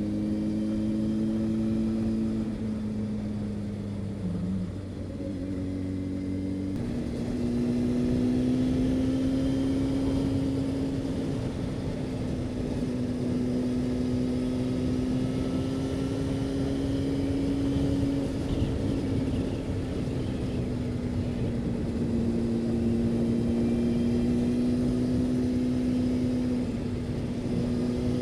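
Honda CB600F Hornet's inline-four engine running at speed, with wind noise. The engine note falls a few seconds in, steps back up about seven seconds in, then holds fairly steady with small rises and falls in pitch.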